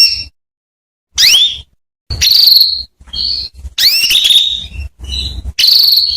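Female canary calling: a run of short bursts of upward-sweeping chirps and buzzy trills, one after another with brief gaps, used as a lure to set male canaries singing.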